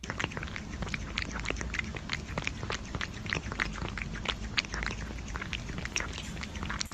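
A pet animal making a quick, irregular run of short clicking sounds over a low steady rumble.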